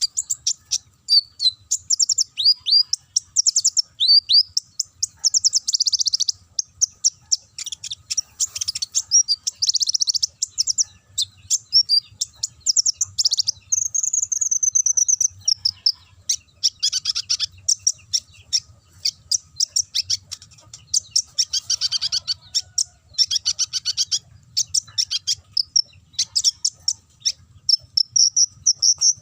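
Konin sunbird singing a fast, unbroken run of high chirps, trills and rattles, with canary-like phrases mixed in. About halfway through comes a longer whistled note that slides slowly downward.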